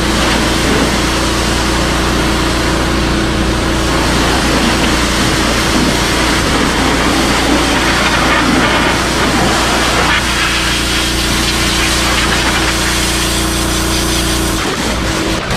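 Pressure washer running steadily, its high-pressure jet hissing as it blasts grime off a steel vehicle frame.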